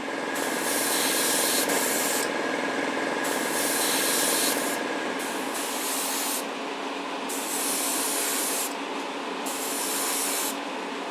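Spray paint hissing in about five short bursts, one to two seconds each, as dark blue paint goes onto a model car body, over a steady low hum.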